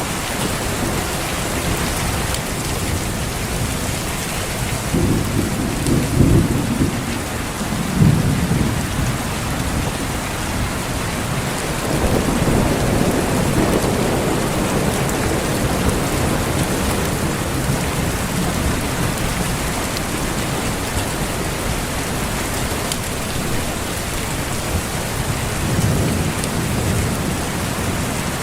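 Steady heavy rain with rolls of thunder: a rumble swells about five seconds in, peaking twice, and further rumbles come around twelve seconds in and near the end.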